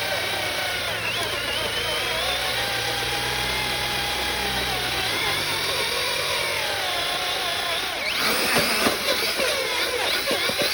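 Electric motors of RC trucks whining under heavy load in a tug-of-war, their pitch wavering up and down as they strain against each other. From about eight seconds in, rapid crackling clicks join the whine.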